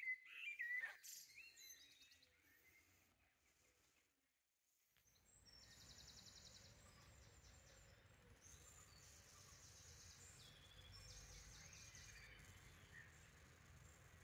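Faint songbirds singing: a few whistled notes that glide in pitch right at the start, then, after a brief drop-out, short high rapid trills repeated every couple of seconds over a steady low rumble.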